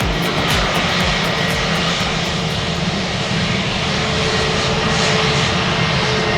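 Jet airliner engines running, a loud steady rush with a steady whine through it. Music with a regular beat fades out over the first few seconds.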